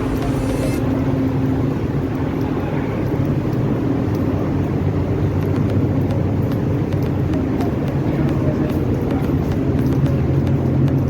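Engine running steadily: a loud, low drone with a steady hum.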